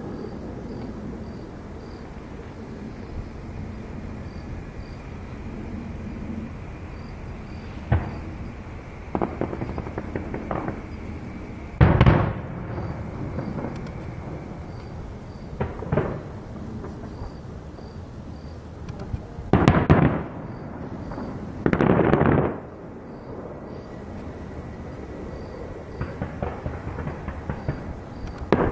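Aerial firework shells bursting at a display: separate booms a few seconds apart, the loudest a little before halfway, two longer rumbling blasts about two-thirds through, and a run of quick crackling near the end.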